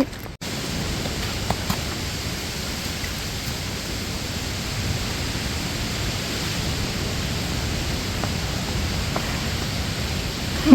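Steady rush of water, an even hiss and roar that builds a little towards the end, as of surf or falling water close by.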